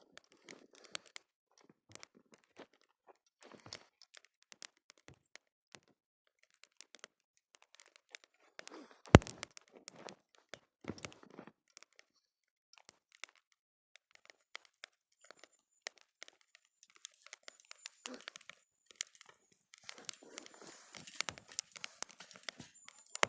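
Wood campfire crackling: scattered small pops and snaps, with one sharp, loud pop about nine seconds in and busier crackling near the end.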